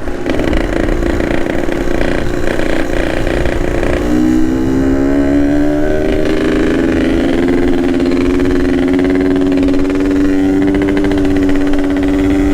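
Yamaha RX-King single-cylinder two-stroke motorcycle with an aftermarket Boban exhaust, running while being ridden. About four seconds in the engine note drops, then rises slowly and steadily as the bike accelerates.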